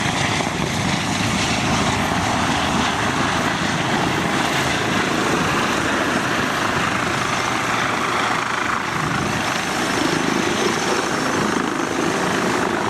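A helicopter's engine and rotor running steadily at close range, making a loud, even noise.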